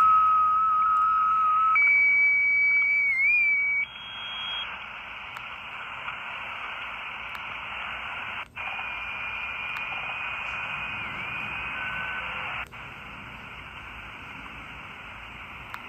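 Static hiss from a 4732 mini shortwave radio with poor reception, with steady whistles on top that jump to a higher pitch every couple of seconds. The sound drops out twice for an instant in the second half.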